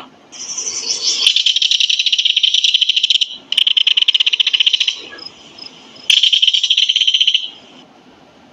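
Kingfisher calling: a fast, high-pitched rattling trill in three long bouts, the first about three seconds long and the next two shorter.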